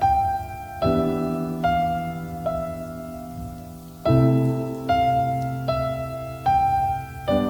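Slow, gentle piano music: single melody notes struck about every 0.8 s, each fading, over low sustained chords that change about a second in and again about four seconds in.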